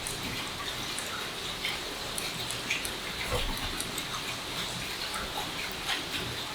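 Steady heavy rain hissing, with many scattered single drops and drips ticking through it.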